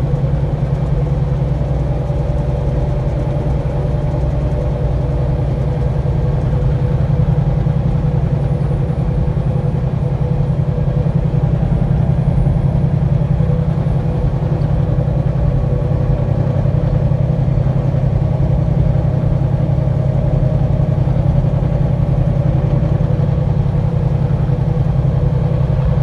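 Semi-truck's diesel engine running steadily, a loud, even drone heard from inside the cab.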